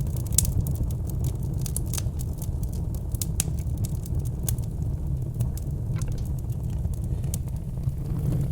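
Log fire crackling: irregular sharp pops and snaps over a steady low rumble of the flames.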